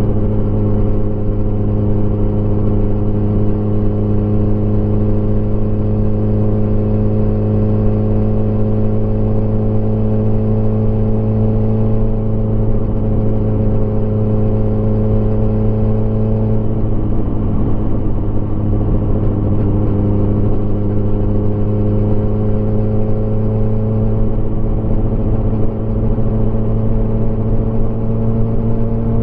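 Motorcycle engine running steadily at cruising speed. About seventeen seconds in the engine note falters, then comes back lower and climbs slowly as the bike picks up speed again.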